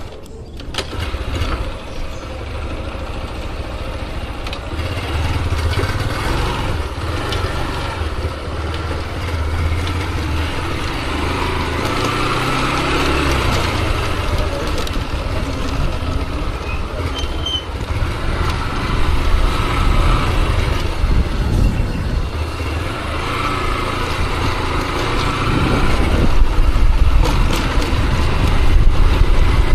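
Motorcycle riding along a street: engine running under a heavy low rumble of wind on the microphone, getting louder near the end.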